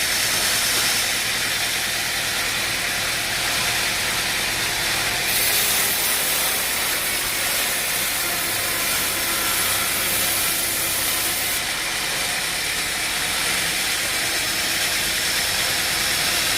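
Woodworking machinery running steadily: a loud, even hiss over a faint low hum. The hiss turns brighter and harsher from about five seconds in and eases back a little before twelve seconds.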